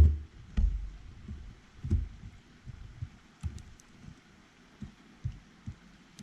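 Birds at a feeder close to the microphone: irregular dull thumps and knocks, with a few faint short high chirps about halfway through.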